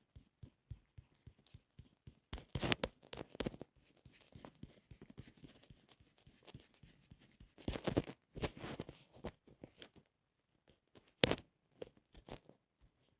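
Close-up rustling and scratching with scattered clicks, in irregular bursts, loudest about three seconds in, around eight seconds and briefly near eleven seconds.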